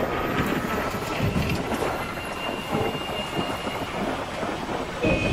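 Wind rush and the rumble and clatter of a passenger train running at speed, heard at an open coach window. A horn starts sounding right at the end.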